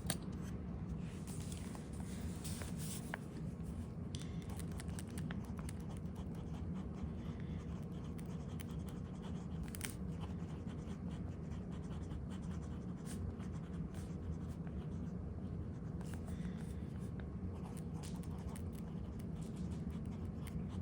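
Fountain pen writing on paper, with soft, scattered nib scratches over a steady low hum.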